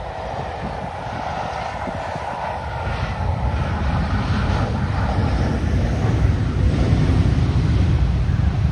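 Airliner's engines on landing approach, growing steadily louder as it nears, the sound deepening into a low rumble.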